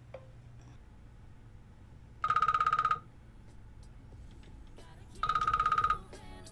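A telephone ringing: two short, rapidly trilling rings, each under a second long and about three seconds apart.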